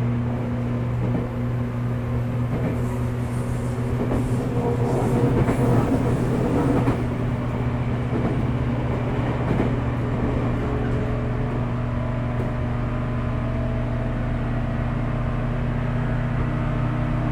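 Running sound inside the motor car of a 415 series electric train: a steady hum and whine from the traction motors and gears under the floor over the rumble of wheels on rail. It rattles louder from about three to seven seconds in, then settles back to an even run.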